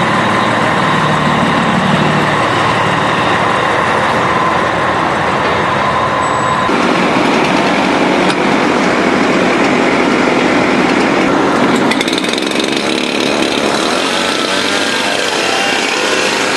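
Fire engine running, a loud steady noise that changes abruptly twice, about seven and twelve seconds in.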